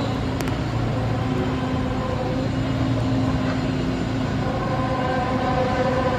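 A steady low drone: a rumble with a held tone and its overtones, a little stronger over the last two seconds.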